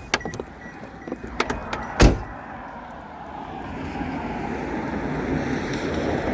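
A few clicks and one sharp thump from the van's door or window about two seconds in, then a steady wash of heavy rain noise that grows louder through the last few seconds.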